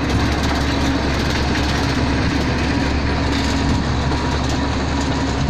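Heavy diesel machinery, an excavator and a dump truck, running steadily with a deep rumble and a constant drone.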